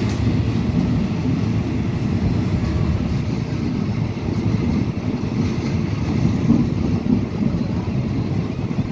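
Passenger train carriage running, heard at an open window: a steady low rumble from the moving train, with wind buffeting the microphone.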